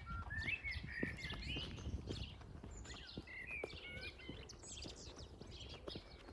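Several songbirds chirping and singing together, with many short overlapping calls and whistled glides.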